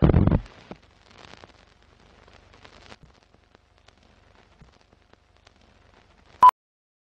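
Sound effects for an animated film-leader countdown ident: a loud hit at the start, then faint crackling with scattered clicks, and near the end a single short, high beep like a countdown-leader pop.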